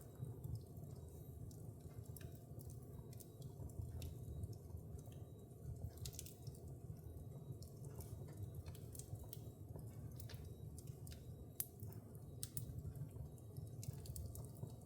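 Wood fire burning in a fireplace: a steady low rumble of flames with irregular sharp crackles and pops from the burning logs, one pop louder than the rest a little after the middle.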